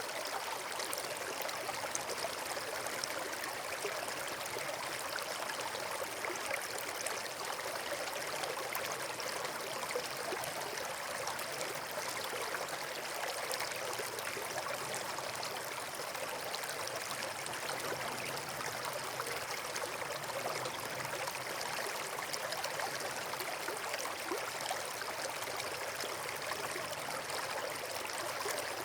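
Campfire crackling steadily: a dense, even run of small pops and snaps over a continuous hiss.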